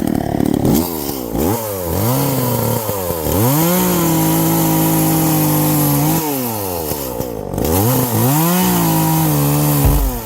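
Chainsaw cutting wood, its engine revving up and falling back several times and held at high speed for a couple of seconds at a stretch. It cuts off just before the end.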